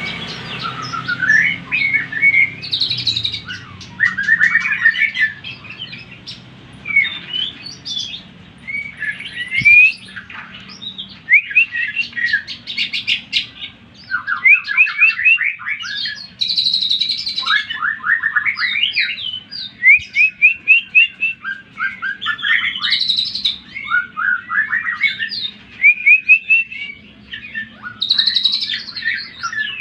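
Cucak ijo (green leafbird) singing a fast, varied song of whistles and quick runs of repeated notes, phrase after phrase with short breaks. This is a pancingan recording, the kind of aggressive song used to provoke other cucak ijo into singing.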